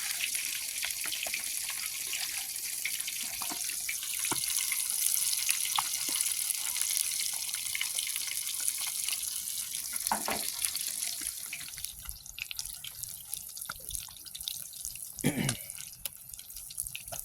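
Fish deep-frying in hot oil: a steady sizzle full of small crackles and pops, which drops away about twelve seconds in. A short falling sound comes near the end.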